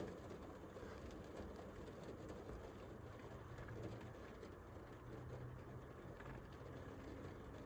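Steady rain falling, a faint even patter, with a low hum underneath for a few seconds in the middle.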